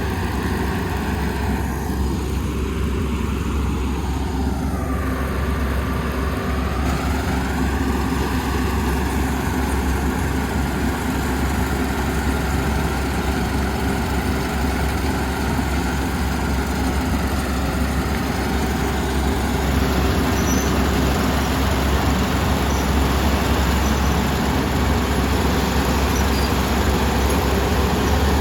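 Kubota ER470 combine harvester's diesel engine and threshing machinery running steadily. About five seconds in, the pitch dips briefly and comes back up, and from about twenty seconds in the machine is slightly louder.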